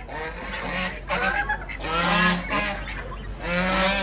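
Geese honking, with repeated loud calls about a second apart and fainter honks between them.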